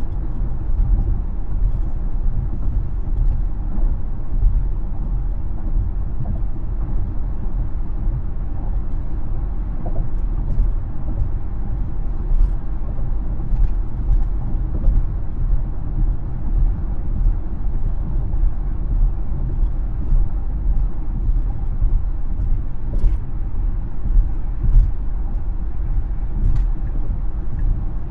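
Steady low road and tyre rumble of a Tesla electric car driving, with a few faint ticks now and then.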